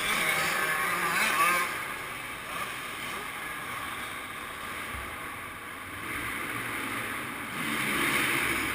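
Motocross bike engines running in an indoor hall, rising as a bike revs and passes during the first second and a half and again near the end, with a lower steady drone in between.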